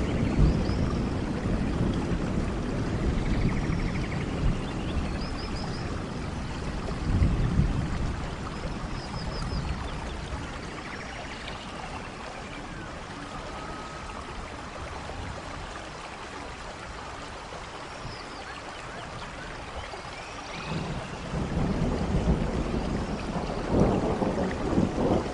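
Steady rainfall with deep rumbles of distant thunder, strong at the start, easing off in the middle and building again near the end.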